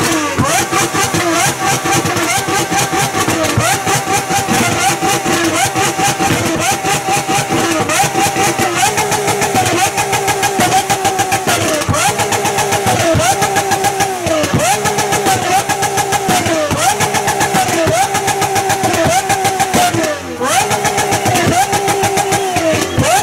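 Mid-engined supercar's engine revved over and over, in repeated throttle blips about once a second, each rising quickly and falling back, with a brief lull about twenty seconds in.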